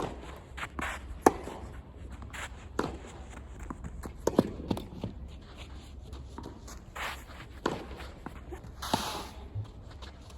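Tennis ball sounds on the court: sharp knocks of racket strikes and ball bounces, coming irregularly every second or so, with players' footsteps.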